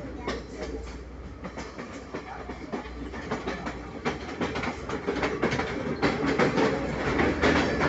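Udarata Menike passenger train running on the rails: a steady rumble with quick, irregular clacking of the wheels over the track, growing louder about halfway through.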